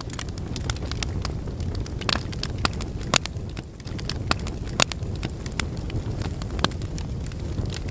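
Logs burning in a fireplace: a steady low rumble of flames with irregular sharp crackles and pops, a few louder pops standing out.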